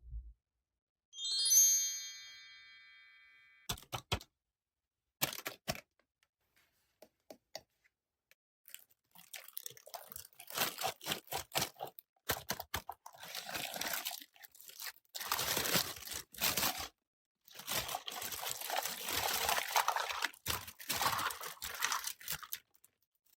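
A short bright chime about a second in, then a few sharp clicks and taps, then a long stretch of crackly crunching and crinkling as Play-Doh modelling dough and its plastic tools are handled and pressed.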